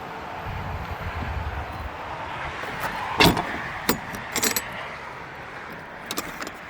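Steady outdoor background noise with a low rumble in the first two seconds, then a few sharp clicks and clinks around the middle.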